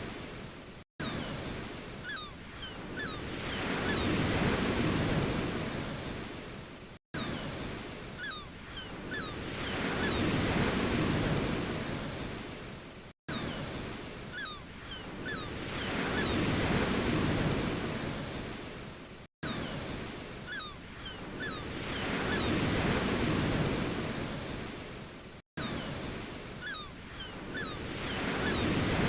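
Ocean waves surging and washing back on a shore, one swell about every six seconds. It is a short recording looped, with a brief gap of silence at each join.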